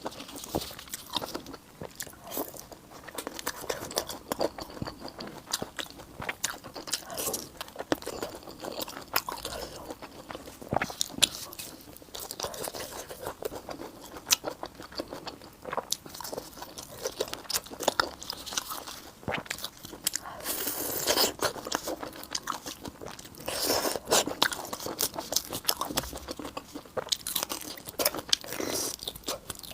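A person biting and chewing food close to the microphone, with many irregular sharp crunches.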